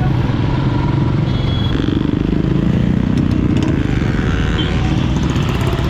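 Motorcycle engine running steadily while riding, with wind rumble on the microphone. A brief high beep sounds about a second and a half in.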